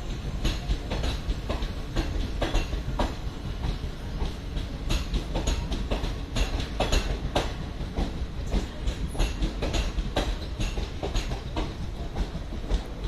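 Indian Railways express train running on the track: its wheels clatter over rail joints in many irregular sharp clicks over a steady low rumble.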